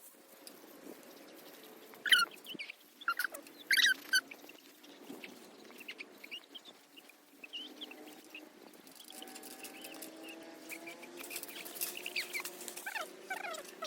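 Birds chirping: a few loud short calls around two and four seconds in, and more calls near the end, over a faint steady low hum.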